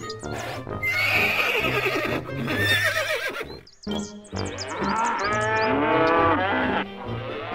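Horse neighing over background music. Near the middle the sound cuts to a different farm animal calling several times, each call rising and falling, with the music still playing.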